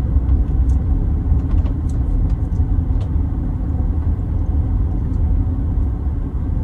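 Motorhome driving on a mountain road: a steady low engine and road rumble, with a few faint light clicks.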